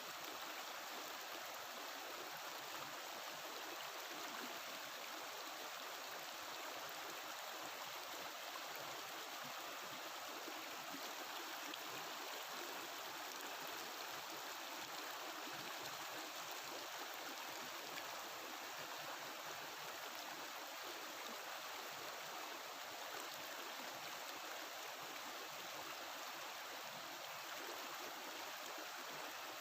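Mountain river water flowing over rocks, a steady babbling rush.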